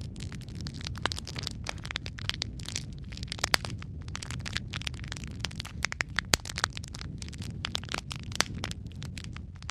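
Wood logs burning in a fireplace: dense, irregular crackles and sharp pops over a steady low rumble of the flames.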